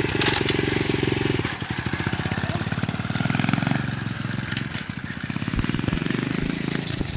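Dirt bike engine running, its pitch rising and falling with the throttle; it drops noticeably about one and a half seconds in.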